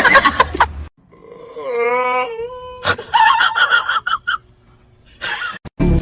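A cat yowling: a long wavering wail, then a second higher call that rises at the end, and a short cry near the end.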